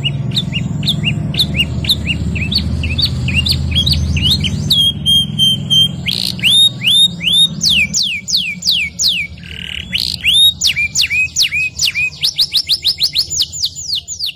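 Domestic canary singing: series of quick falling whistled notes in rolling trills, a held steady whistle about five seconds in, then faster trills near the end. A low hum sits under the first half.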